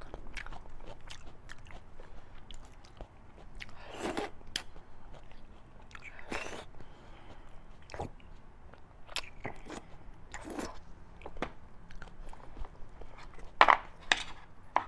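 Close-miked chewing and biting of fatty beef and bone marrow: wet clicks and crunches, with a louder crunch near the end.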